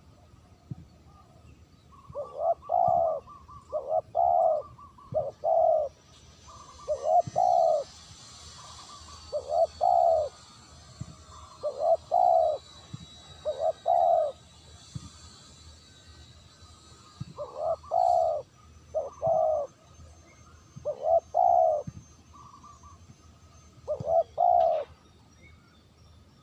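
Spotted dove cooing: low coo phrases of two or three notes each, repeated about every two seconds, with a pause in the middle.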